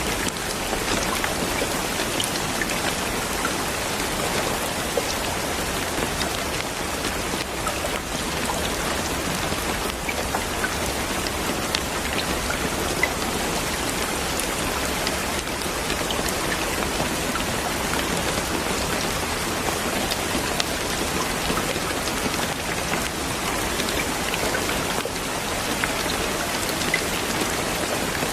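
Steady, even rain falling, with many small drops ticking on a surface.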